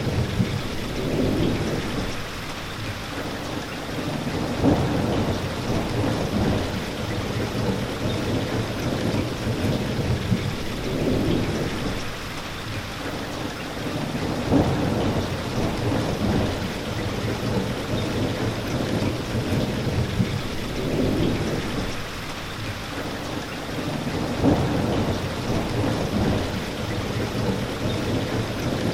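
Steady rain pattering down, with low rumbles that swell up and fade away every few seconds.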